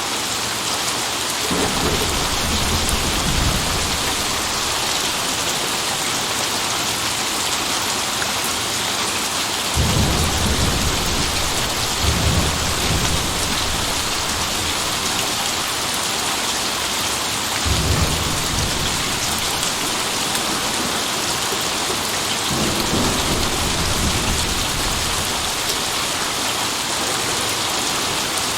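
Steady heavy rain with four low rolls of thunder rumbling in and fading away, the loudest about a third of the way in.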